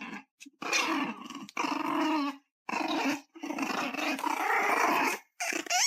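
A dog growling in a run of five or six drawn-out, pitched grumbles with short breaks between them.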